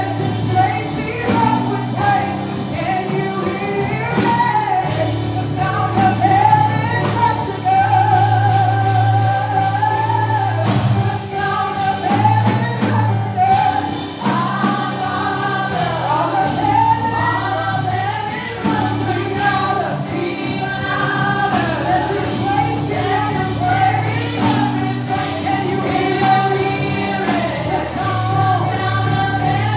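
Gospel worship music: a choir singing over a band, with held bass notes and a steady beat.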